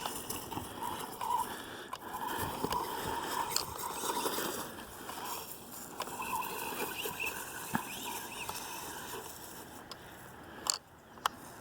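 Hosim S911 RC truck's electric motor whining with a wavering pitch as it drives through grass, with rustling and scraping from the tyres and chassis and a few small clicks. It dies down near the end.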